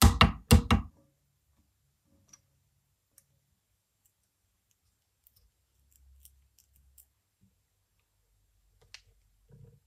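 Two or three heavy knocks with a short ring in the first second, then only a few faint, scattered clicks.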